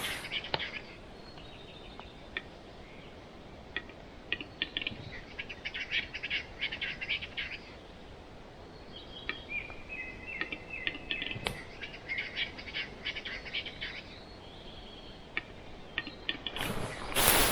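Western capercaillie displaying: a run of dry clicks that speed up into a rapid clicking rattle, twice, with small birds chirping around it. A loud crunching rustle starts near the end.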